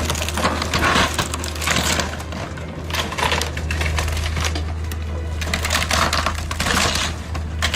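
Dense, irregular clattering and crunching over a steady low machine drone.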